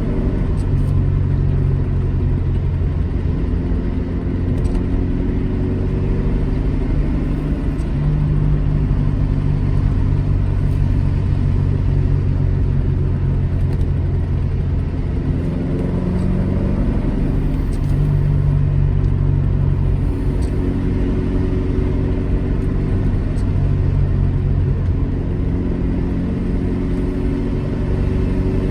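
Alfa Romeo GT Junior's twin-cam four-cylinder engine pulling the car along the road, its note rising and falling several times with throttle and gear changes.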